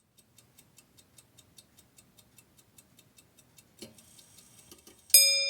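Faint, even ticking, about five ticks a second, like a clock. Near the end a bell-like chime is struck loudly and rings out, fading.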